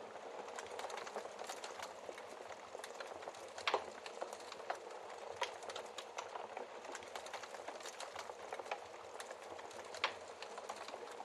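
Wood fire crackling steadily in a fireplace, with scattered small snaps and two sharper pops from the burning logs, one a few seconds in and one near the end.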